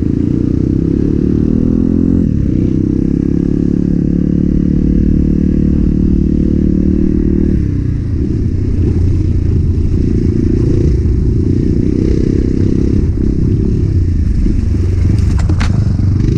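Enduro motorcycle engine running at a steady pitch, then running rougher and more unevenly from about seven seconds in. There is a sharp click near the end.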